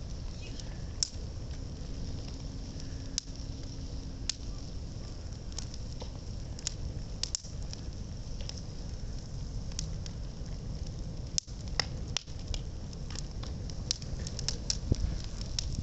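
Bonfire burning a wooden shop sign: a steady low rumble of flame with scattered sharp crackles and pops, coming more often near the end.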